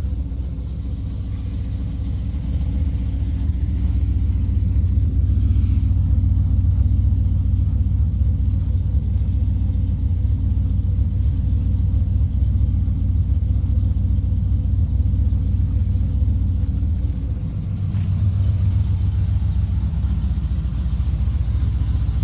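Pickup truck engine idling after a cold start, a steady deep exhaust rumble through a large muffler.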